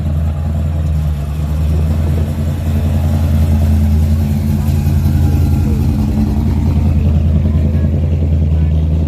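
A car engine running steadily at idle with a deep, even rumble that grows a little louder about two seconds in.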